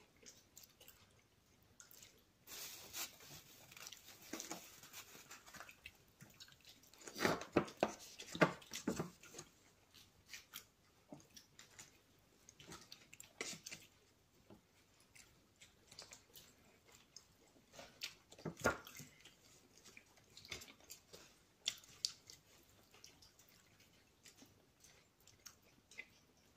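Close-up mouth sounds of someone biting and chewing a soft apple doughnut: scattered wet clicks and smacks, loudest in a cluster about seven to nine seconds in.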